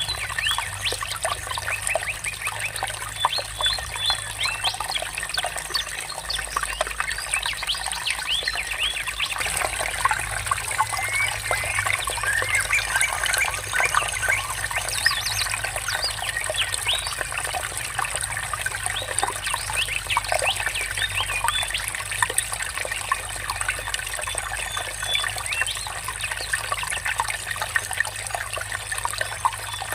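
Water trickling and murmuring steadily, with many birds chirping throughout in quick, short notes.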